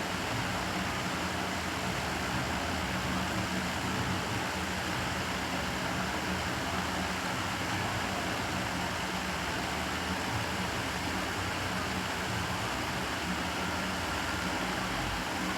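Steady hum and hiss of room ventilation running, with a faint low steady tone under it.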